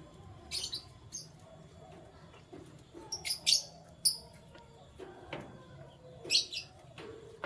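Pet canary giving short, high chirps in three clusters: about half a second in, between three and four seconds in, and again past six seconds.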